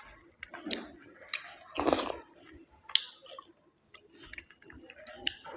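A person chewing and eating chicken biryani close to the microphone: irregular wet smacks and mouth clicks, with one louder, longer burst of noise about two seconds in.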